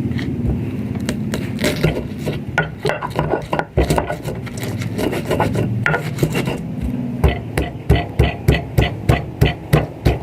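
Kitchen food preparation: repeated knocking and rubbing strokes, irregular at first, then a steady run of knocks about two a second near the end, over a steady low hum.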